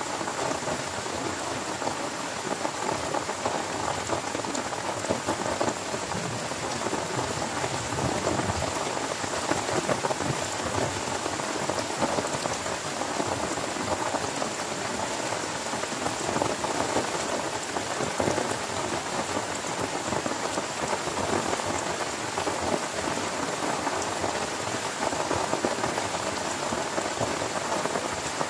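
Heavy rain pattering steadily on a tent, a dense, even patter of drops with no let-up.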